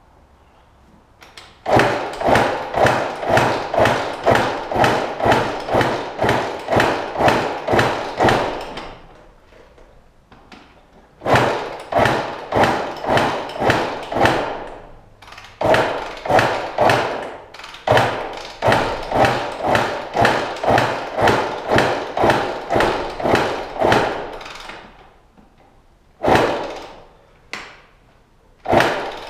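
Rapid, evenly spaced thumps, about two or three a second, come in runs several seconds long with short pauses between them, from efforts to start a 2005 Honda CR125 two-stroke dirt bike that won't start.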